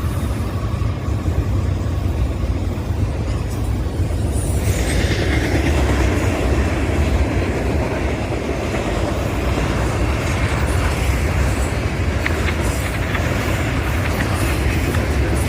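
Train rolling past at speed: a steady rumble of steel wheels on rail that grows louder and brighter about four and a half seconds in and stays so.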